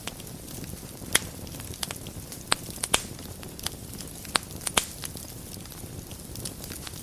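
Wood fire burning in a fireplace: a steady low rumble of flames with scattered sharp crackles and pops, clustered in the first five seconds and sparser near the end.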